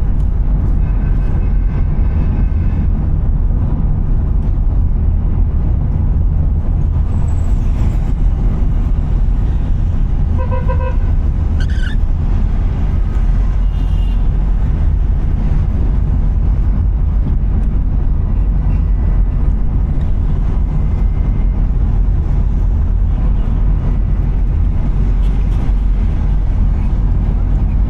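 Steady low rumble of a car driving through city traffic. Vehicle horns toot over it: a faint one near the start and a short run of horn beeps about ten seconds in.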